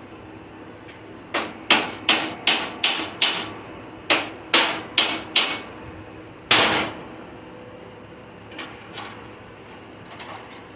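Hammer blows: a quick run of six strikes about three a second, then four more, then one heavier blow, with a few light taps near the end.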